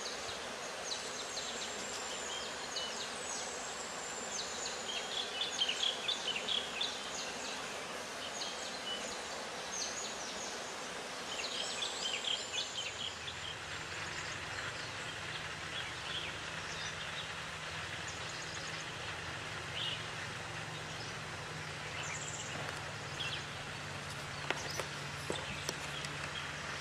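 Mountain forest ambience with several birds chirping and whistling in short, high calls, some of them falling in pitch, scattered throughout. A low steady hum comes in about halfway through.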